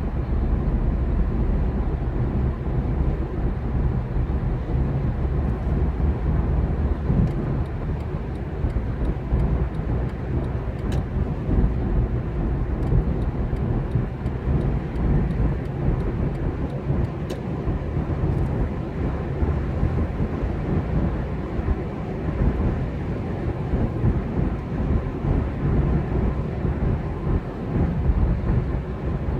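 Steady low rumble of a vehicle on the move, engine and road noise, with no clear changes.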